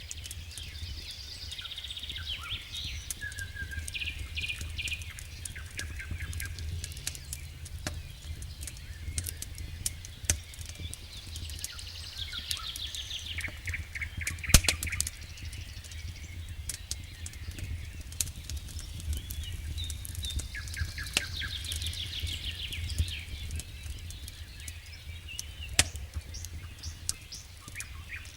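Wood fire crackling, with frequent sharp pops (the loudest about halfway through) over a low steady rumble. Birds chirp and trill in the background several times.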